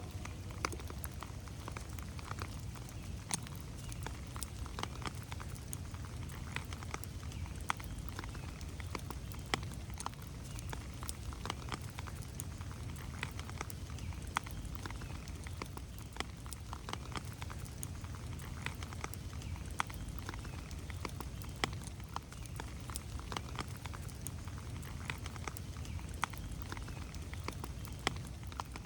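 Steady rain in a forest, with many separate drops ticking sharply over a steady low rumble.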